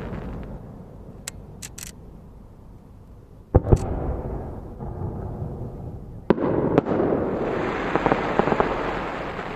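Aerial firework shells bursting: a loud double boom about three and a half seconds in, then two sharp bangs a half-second apart, followed by a spell of crackling pops.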